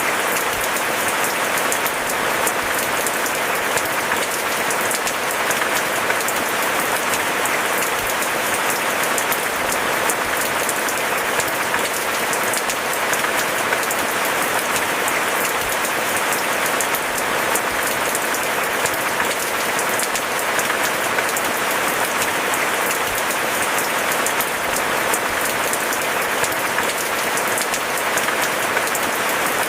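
Steady rain falling: an even hiss of many small drop impacts that holds unchanged throughout.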